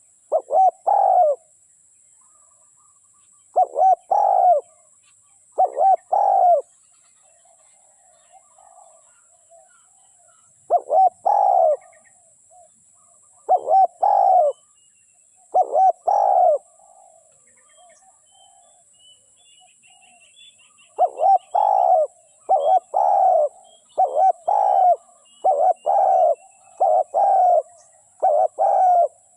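Spotted dove cooing: repeated phrases about a second long, in spells with pauses, then a run of about eight in quick succession near the end. Faint chirps of smaller birds sound between the coos.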